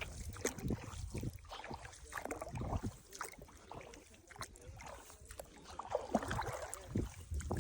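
Feet wading through shallow, mucky swamp water: irregular sloshing and splashing strokes as each step sinks into the soft bottom.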